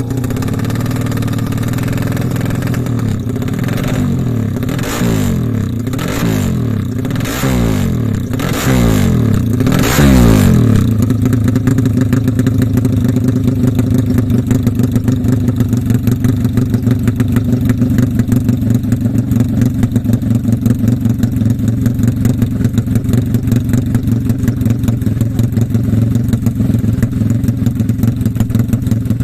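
A 350cc GL-based racing motorcycle engine being revved in about five quick blips, each rising and falling, before settling into a steady, evenly pulsing idle about ten seconds in.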